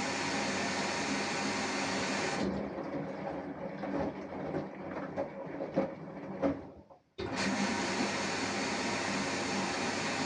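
Samsung Eco Bubble washing machine with an inverter motor running with a steady hum. About two seconds in the sound turns duller with several knocks, fades out briefly near the middle, then the steady running comes back abruptly.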